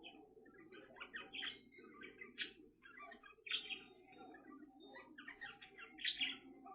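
Soft chirps and chatter from an Indian ringneck parakeet: short notes in a quick, irregular series, over a steady low background hum.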